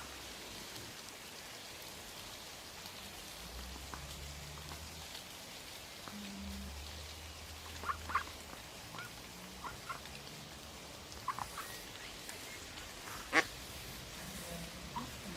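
Ducks quacking: several short calls from about halfway in, the loudest one near the end.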